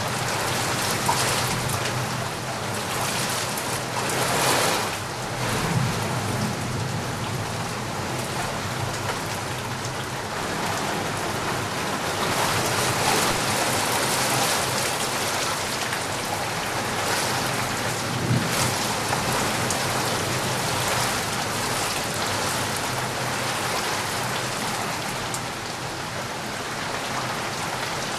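Steady rain: a dense, even hiss of falling drops, swelling a little louder now and then.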